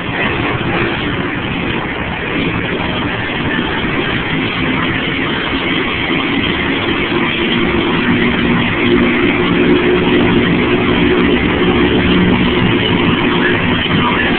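Monster truck engine running loud under a dense wash of noise, its pitch lines growing stronger in the second half.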